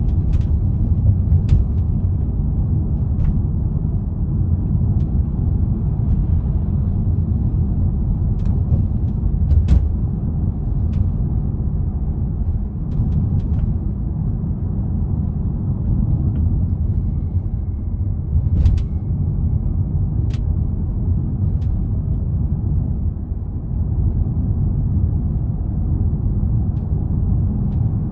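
Polestar 2 electric car driving over cracks and rough road: a steady low road rumble with sharp clicks at irregular intervals, over a dozen of them. The clicking is an unwanted noise the car makes on broken pavement.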